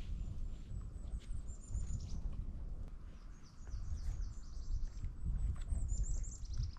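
A small songbird singing three short phrases of very high, thin, rapidly repeated falling notes, over a low rumble.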